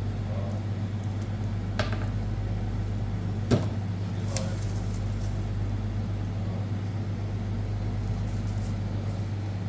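Vehicle engine running steadily with a low hum, with a few sharp clicks or knocks over it, the loudest about three and a half seconds in.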